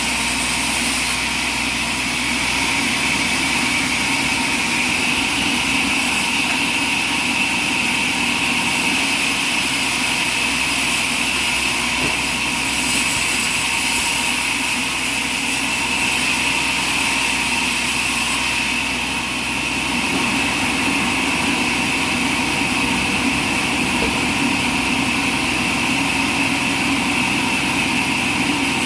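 Sawmill machinery running steadily, a continuous engine-like drone that hardly changes, with a brief slight dip in level about two-thirds of the way through.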